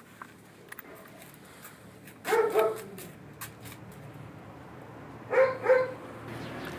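A dog barking: two short barks about two and a half seconds in and two more about five and a half seconds in, with a few faint clicks between them.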